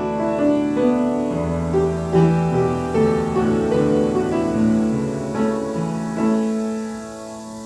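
Piano playing a slow piece in held chords, the notes changing every second or so.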